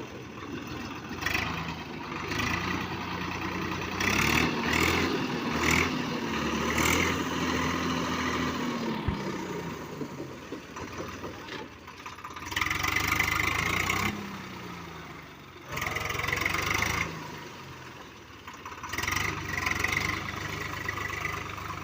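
Swaraj 744 FE tractor's three-cylinder diesel engine running, speeding up about four seconds in, holding, then dropping back about nine seconds in, with another short rise in engine speed a few seconds later.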